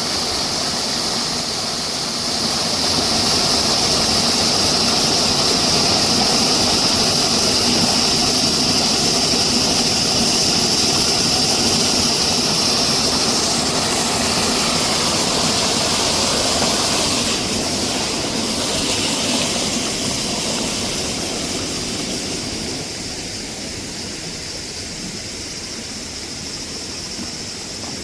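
Mountain stream water rushing steadily, under a constant high-pitched drone of summer cicadas that fades about halfway through; the whole sound drops in level a few seconds before the end.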